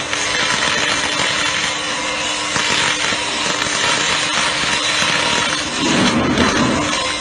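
MIG welding arc crackling and sputtering steadily as the wire feeds into the weld, with a steady hum underneath.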